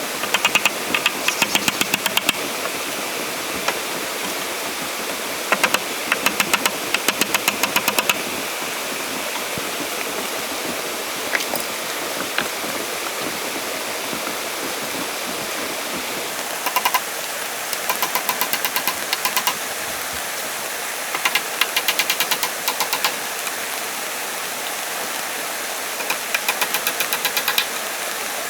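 Steady rush of running water, with bursts of rapid ticking every few seconds, about eight ticks a second, each burst lasting one to two and a half seconds.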